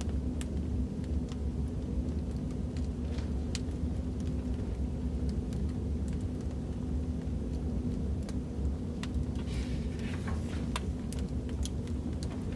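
Recorded wood fire in a fireplace crackling, with scattered sharp pops over a steady low rumble, and a brief soft swish about ten seconds in.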